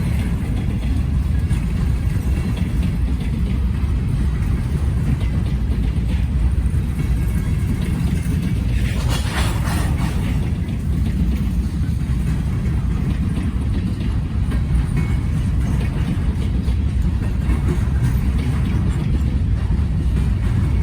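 Freight train rolling past, a steady low rumble, with a brief hiss about nine seconds in.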